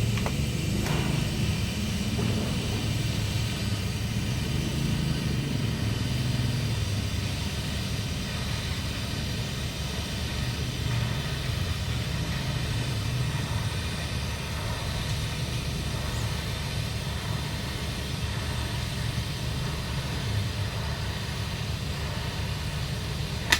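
Steady low machine drone with a hiss over it, unbroken throughout, from welding equipment running during 3-inch schedule 80 pipe welding.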